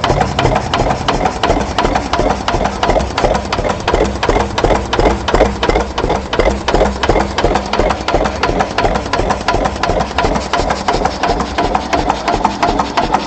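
Vintage Svoboda DK10 tractor's engine idling, with a steady, even beat of sharp firing knocks.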